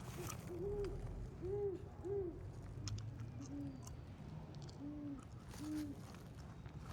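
Owl hooting: a series of about seven short hoots, the last three a little lower in pitch.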